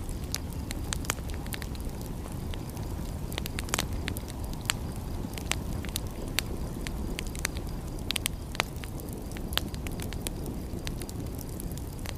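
Wood fire crackling, with irregular sharp pops and snaps, several a second at times, over a steady low rumble.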